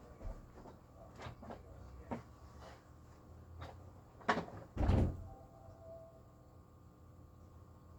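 Light clicks and knocks from the power cord being wound onto an upright vacuum cleaner and clipped in place, with two louder thumps a little past the middle. The vacuum's motor is off.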